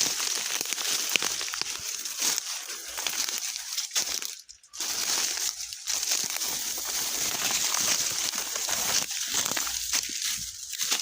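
Footsteps crunching and crackling through dry leaf litter and twigs, breaking off briefly a little before halfway.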